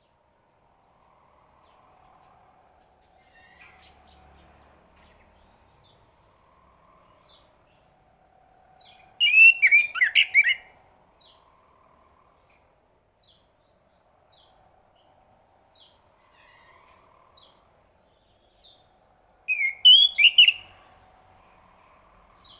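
Chestnut-capped thrush singing: two loud bursts of quick, sweeping phrases, about nine and twenty seconds in, with short faint high notes between them.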